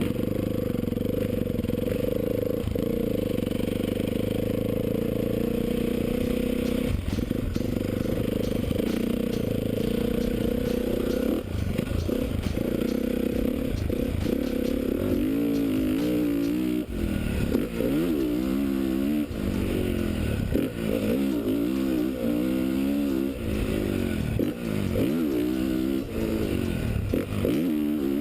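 2013 Honda CRF450 dirt bike's single-cylinder four-stroke engine, heard on board while riding a motocross track. It runs at a steady pitch at first, then from about halfway through revs up and down again and again as the throttle is opened and closed.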